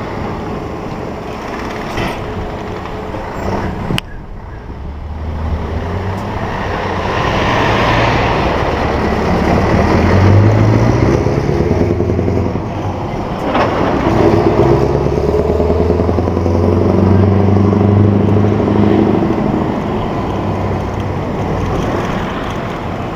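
Scania 164G 480's V8 diesel engine pulling away and accelerating, its note climbing, breaking off about halfway through at a gear change, then climbing again before easing off and getting quieter.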